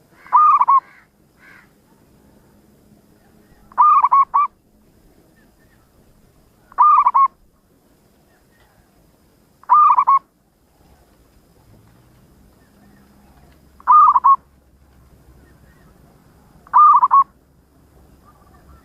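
Zebra dove cooing: six short trilled phrases, one about every three seconds.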